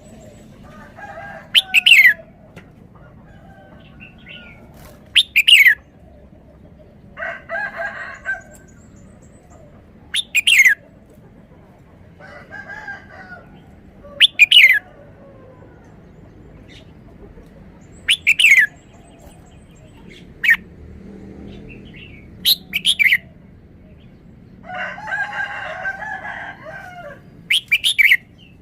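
Red-whiskered bulbul singing its three-syllable song: short, loud phrases every few seconds, each made of sharp falling whistles, alternating with softer warbling phrases.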